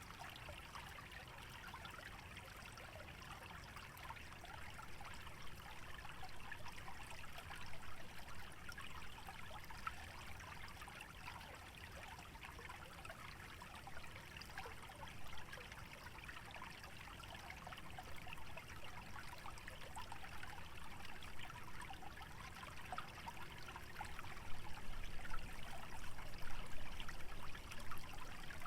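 Shallow wetland stream trickling and babbling steadily over a low rumble, growing a little louder and busier near the end.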